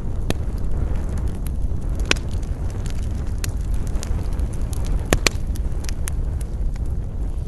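Campfire crackling, with scattered sharp pops of burning wood, the loudest a close pair about five seconds in, over a steady low rumble of wind.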